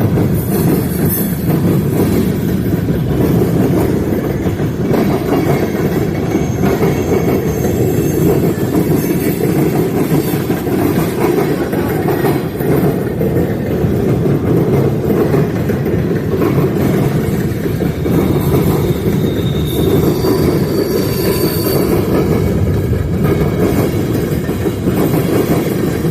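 Freight train cars rolling past with a steady rumble, and the wheels squealing high and briefly twice, about a quarter of the way in and again near the end.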